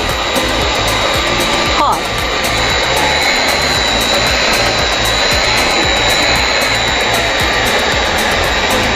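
LC3000A hot air welding machine running: its heat gun blows with a steady hiss and a constant high whine while the machine travels along the seam.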